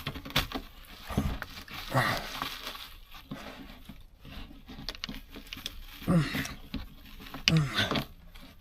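Scattered rustling, crinkling and small clicks as a crumbling old truck headliner is pried and pulled loose, with a few short grunts or mutters from the person working.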